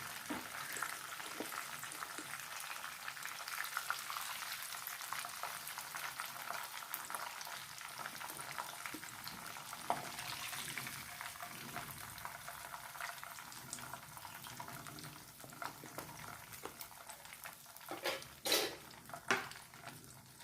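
Breaded chicken pieces deep-frying in hot sunflower oil, a steady sizzle and crackle. Near the end come a few louder knocks, like a utensil against the pan.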